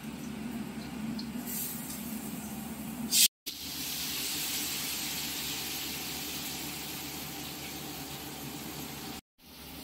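Spice masala frying in oil in a kadai, with a steady sizzle and a brief louder hiss about three seconds in. The sound breaks off twice for a moment at cuts.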